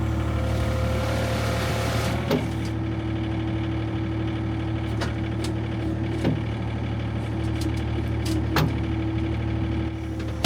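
A vehicle engine idling steadily, with a hiss in the first two seconds and four sharp clicks or knocks spread through.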